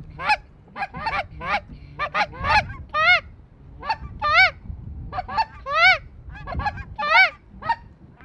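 Geese calling: a steady run of short, high honks and yelps, each rising and falling in pitch, about two a second.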